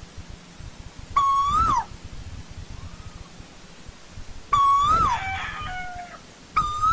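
Asian koel calling: three loud drawn-out notes, each holding, swelling slightly in pitch and then dropping away at the end. A short run of stepped notes follows the second call, and a fainter call sounds in between.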